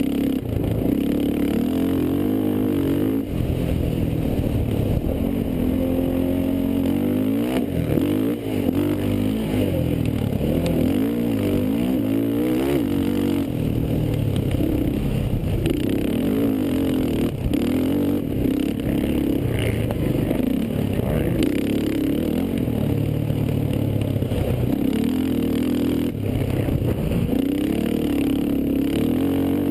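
Racing quad (ATV) engines revving up and falling back over and over as they accelerate and shift through the gears.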